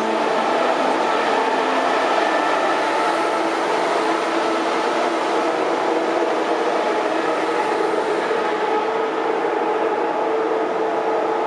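ICE high-speed train rolling slowly past along a platform, its power car and then its coaches going by: steady rolling noise with several held whining tones.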